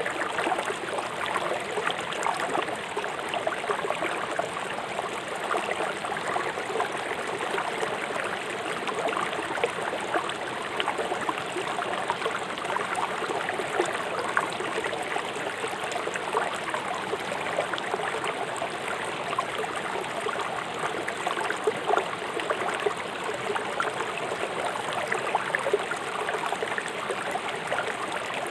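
A fast-flowing river rushing and splashing over rocks, a steady dense water noise with many small splashes.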